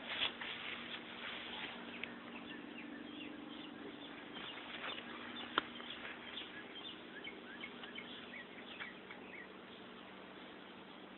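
Birds chirping repeatedly in short, high, falling calls over a steady low hum, with one sharp click about five and a half seconds in.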